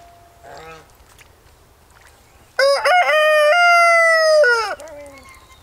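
A rooster crowing once: one loud call of about two seconds, starting about two and a half seconds in and dropping in pitch as it ends.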